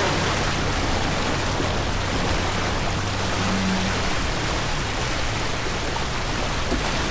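Steady rushing noise of wind and water aboard a racing sailboat under way.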